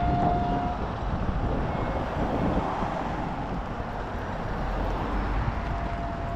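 Road traffic: vehicles passing, a steady rushing noise with a low rumble.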